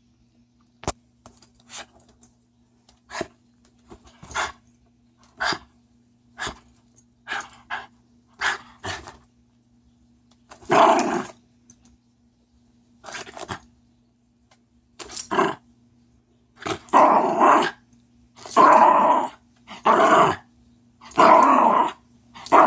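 A dog making a string of short, harsh vocal bursts. They are faint and scattered at first, then louder and longer, coming about every second and a half in the second half.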